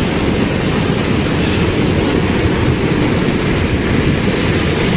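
Floodwater from heavy rainfall rushing in a swollen stream: a loud, steady, unbroken rush, heaviest in the low range.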